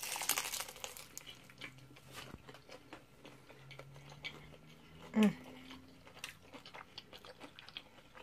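A bite into a crunchy egg roll, crackling for about a second, then steady chewing with small crunches. A brief hum about five seconds in.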